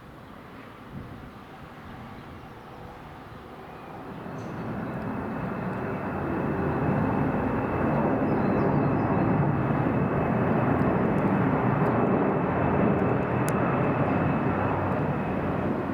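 Aircraft flying low overhead on its approach to land: engine noise swells from about four seconds in and stays loud, with a steady high whine over it.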